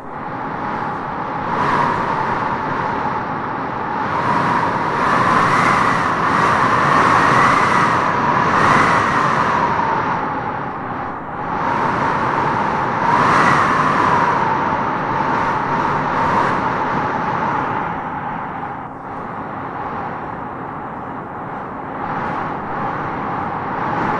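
Strong wind blowing in gusts, with a howling whistle that rises in pitch as each gust builds and falls away as it eases.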